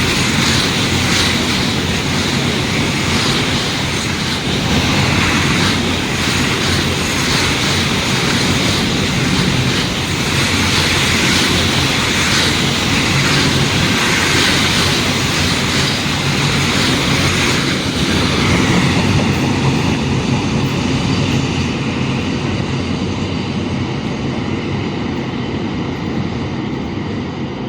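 Long freight train passing at speed: a loud, steady rush of wheels on rail and wagons running by. The high hiss thins out and the sound eases slightly over the last several seconds.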